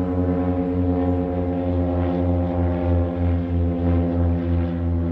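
Airplane just after takeoff, flying low overhead, its engine drone steady and loud with the pitch slowly falling.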